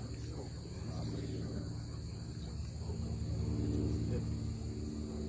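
Insects making a steady, continuous high-pitched chorus, over a low background rumble.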